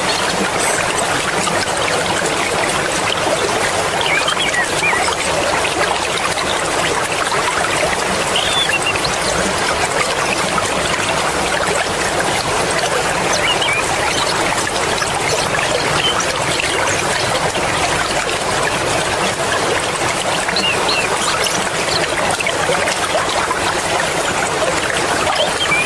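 Swift-flowing mountain river: a steady rush of water with small splashes and plinks scattered through it.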